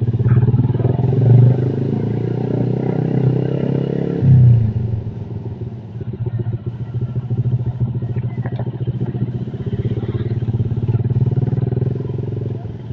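Motorcycle engine running under way, with a steady multi-tone engine note. About four seconds in the note drops and gets quieter as the throttle eases off, then it runs on at the lower level.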